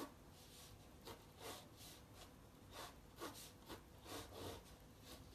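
Faint, irregular scratching of pencil strokes on paper while a composition is being sketched, a stroke or two each second.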